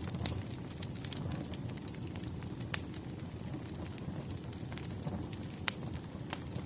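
Crackling fire: a steady low rumble with scattered sharp pops and snaps, the loudest a little under three seconds in.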